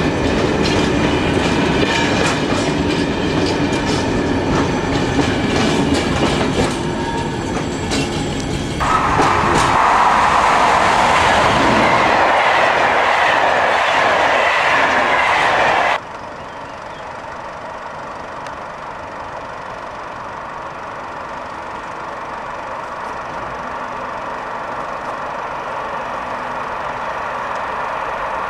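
Wheels of a passing freight train of flat wagons clacking over rail joints. About nine seconds in, a fast passenger train rushes past with louder, even noise, which stops abruptly about halfway through. A quieter electric locomotive then approaches, growing slowly louder.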